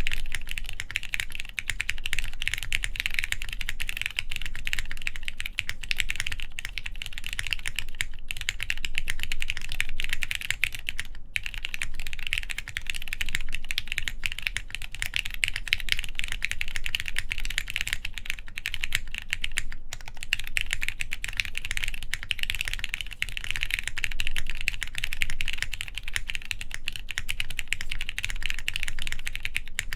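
Continuous fast typing on a plateless mechanical keyboard with lubed Cherry MX Black linear switches and thick PBT keycaps, with a steady stream of keystrokes and only a couple of brief pauses.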